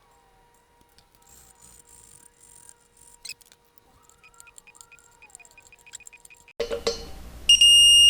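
Ratchet clicking faintly while the brake rotor bolts are tightened, then, near the end, one loud electronic beep of about half a second: the torque wrench signalling that the bolt has reached its set torque.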